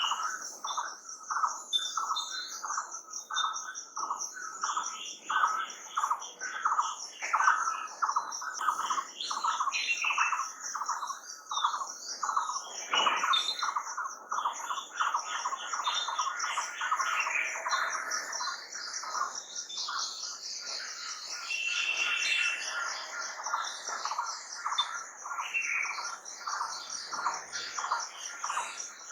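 Several birds singing and calling at once in a dawn-chorus-like mix: a lower note repeated about two to three times a second, scattered higher chirps, and a continuous high-pitched trill underneath.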